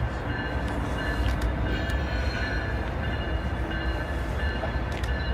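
A train rumbling steadily, its low rumble even throughout.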